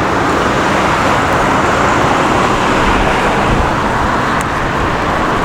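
Steady road traffic noise on a city street, swelling slightly in the middle.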